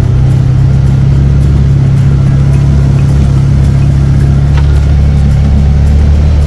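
ATV engine running steadily at an even pitch, close to the microphone.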